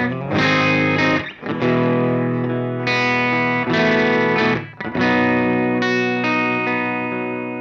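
Electric guitar played with a clean tone, no distortion pedal engaged: chords strummed and held, with short breaks between them, the last chord left ringing and slowly fading.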